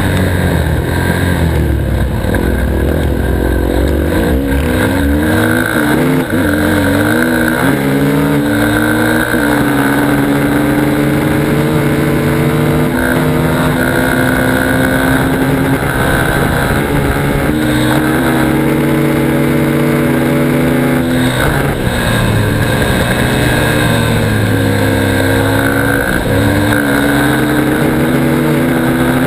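Dirt bike engine running hard under load, its pitch repeatedly rising and dropping with throttle and gear changes, with stretches held at a steady pitch.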